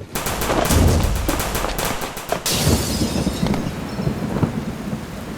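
A burst of rapid gunfire, shots coming about five a second for roughly two and a half seconds, then stopping, leaving steady rain.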